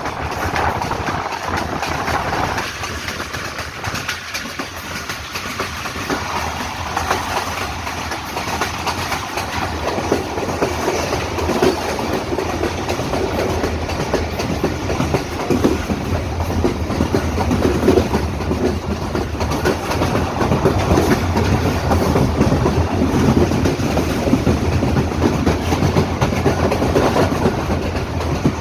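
Passenger train running along the track, its wheels clattering rhythmically over the rail joints under a steady rumble, getting a little louder partway through.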